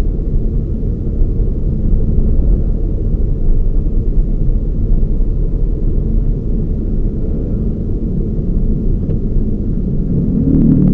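Toyota Raize GR small SUV on the move: a steady, low engine and road rumble, with the engine note swelling briefly near the end.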